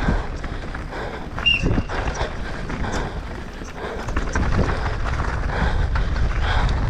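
Downhill mountain bike racing down a rough trail: tyres on dirt and rocks under a steady rumble, the bike knocking and rattling over bumps, with a brief squeal about a second and a half in.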